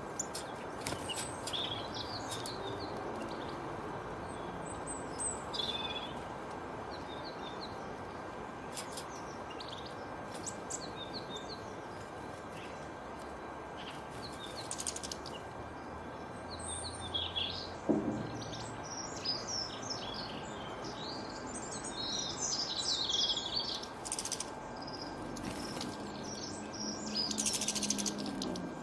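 Several small birds chirping and singing in short, scattered high phrases over a steady background hiss.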